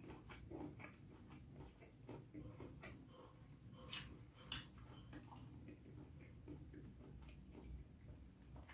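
Faint eating sounds from someone eating beef curry with rice: soft chewing and scattered mouth clicks, a sharper click about four seconds in and another half a second later.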